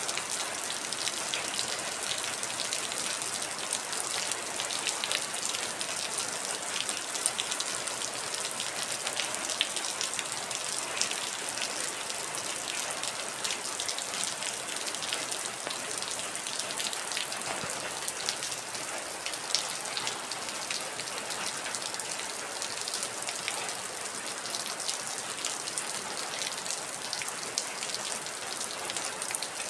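Heavy rain falling steadily: a dense, even hiss full of sharp individual drop ticks.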